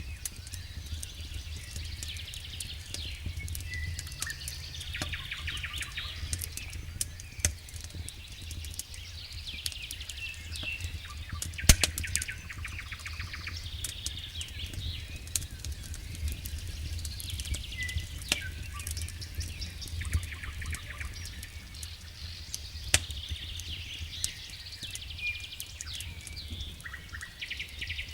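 Wood fire crackling in a fireplace: a steady run of sharp clicks and pops, the loudest about 12 seconds in and again near 23 seconds, over a low steady rumble. High, chirping trills recur every few seconds.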